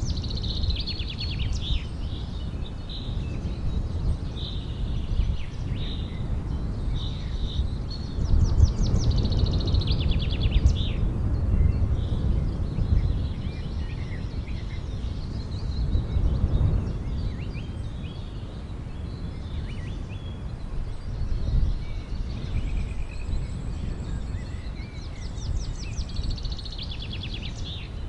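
Small birds chirping and trilling in short repeated phrases over a steady low rumble.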